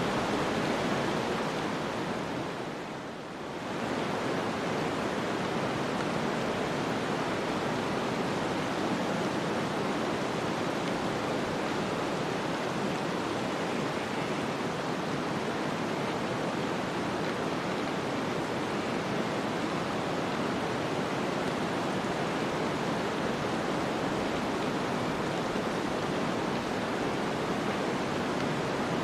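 Snowstorm ambience: a steady, even rush of wind noise that dips briefly about three seconds in, then carries on unchanged.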